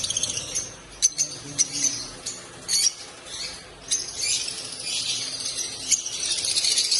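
Lutino lovebirds chattering, with sharp high chirps every half second or so and a busier stretch of rapid chatter over the last few seconds.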